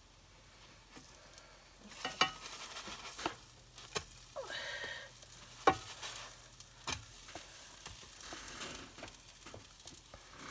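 Cereal-crusted French toast sizzling in butter in a frying pan, with a spatula knocking and scraping against the pan several times. The sizzling picks up about two seconds in.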